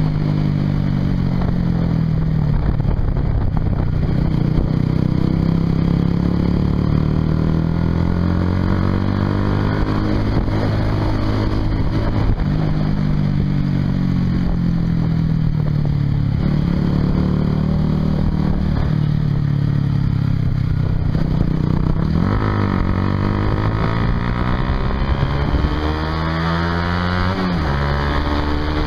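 Honda CBR150R's single-cylinder engine through a Yoshimura aftermarket exhaust, heard on board while riding. Its pitch climbs and falls again and again as the bike accelerates and changes speed, and it drops away in the last few seconds.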